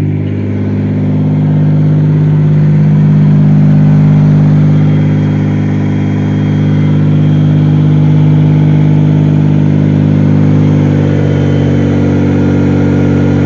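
Mazda Millenia's supercharged V6 engine running steadily, freshly reassembled with its worn connecting-rod bearing taken up by makeshift shims.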